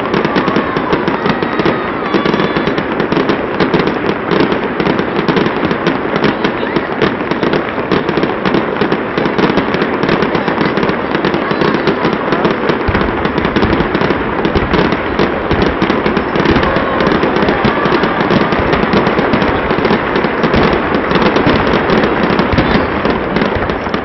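Dense, continuous barrage of fireworks: many bangs and crackles overlapping with no pause. A deeper rumble of heavier booms joins in about halfway through.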